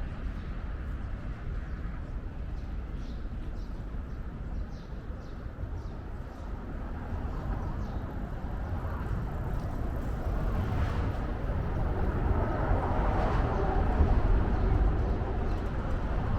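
Outdoor city ambience: a steady low rumble of distant traffic and wind, with faint small ticks. A broad wash of noise swells louder over the last few seconds.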